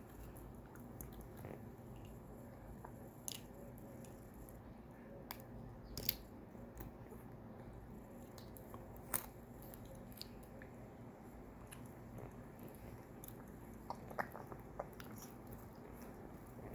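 African grey parrot biting and chewing a plastic drinking straw: scattered sharp clicks and crunches. The loudest come about six and nine seconds in, with a quick run of them near the end.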